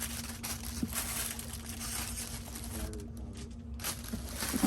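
Rustling and handling noise of hats and clothing being rummaged through, over a steady low hum.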